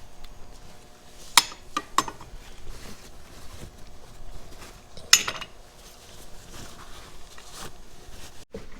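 Metal parts from a tractor's PTO assembly clinking and knocking as they are handled, with a few sharp clinks, the loudest about five seconds in, over a faint steady hum.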